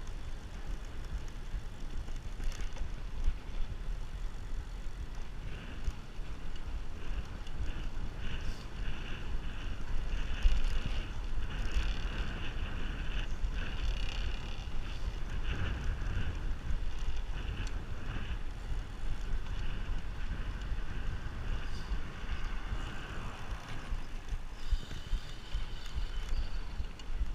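Wind buffeting the microphone of a moving bicycle, a steady low rumble, with shifting higher-pitched sounds over it.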